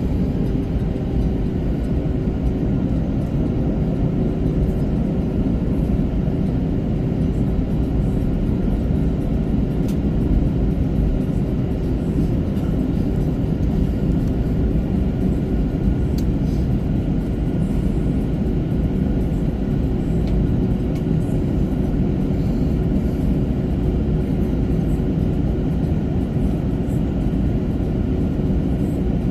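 Steady low rumble inside the cabin of an Airbus A321-200, with a faint steady hum running through it and no rise or fall in level.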